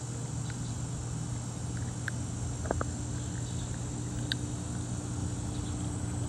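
Steady outdoor background: a constant high-pitched insect chirring over a low steady hum, with a few faint short chirps.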